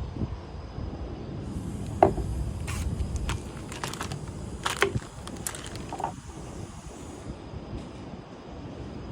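Wind buffeting the microphone as a low rumble, with a run of sharp clicks and small knocks between about two and six seconds in.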